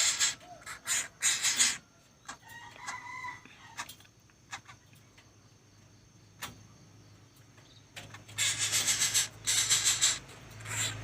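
Young coucal (but-but chick) giving harsh, noisy calls in quick bursts at the start and again from about eight seconds in, with a quieter stretch between.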